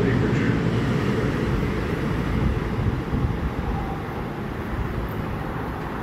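NJ Transit bilevel commuter train running past along the platform, a steady rumble of wheels and cars that fades as the last car pulls away down the track.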